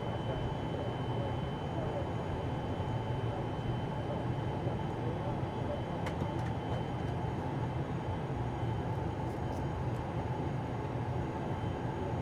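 Steady cabin noise inside an ATR turboprop airliner: an even low engine hum and air rush, with a faint high steady tone and a few light clicks around the middle.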